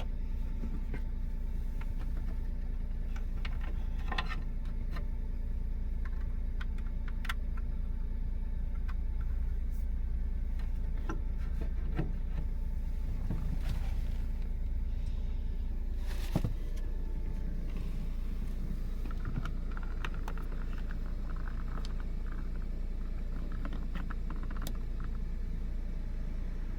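Steady low hum of a running car, with scattered light clicks and taps throughout and a sharper knock about 16 seconds in.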